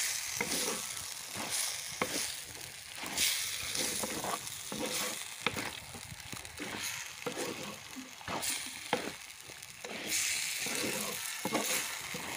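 Duck curry pieces sizzling in a clay pot while being stirred with a wooden spatula, which scrapes and knocks against the pot about once or twice a second.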